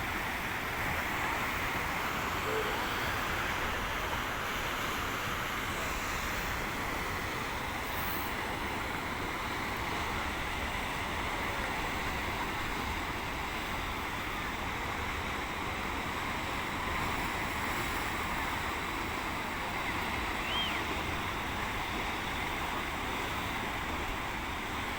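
Sea surf washing steadily onto a beach, a continuous rushing with no distinct breaks.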